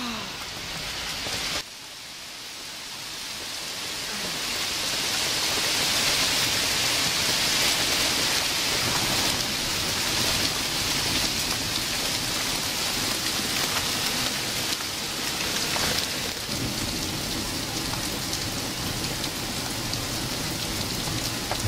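Heavy rain pouring down in a downpour, swelling over the first few seconds to a steady rush.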